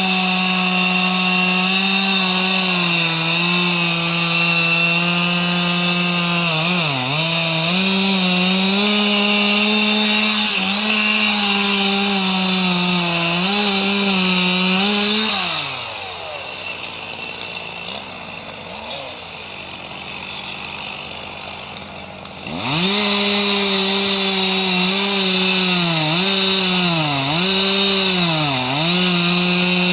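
Chainsaw running at high revs, its pitch dipping again and again as it bogs down in the cut. About halfway through it drops to idle for several seconds, then revs back up and cuts again.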